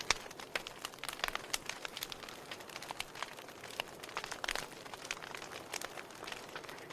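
Wood fire crackling: irregular sharp pops and snaps from burning logs over a steady soft hiss.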